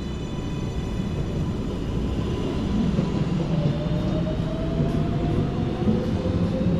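R142A subway car running along the track with a steady rumble of wheels on rail, and a faint whine from the traction motors that rises slowly in pitch from about halfway through as the train gathers speed.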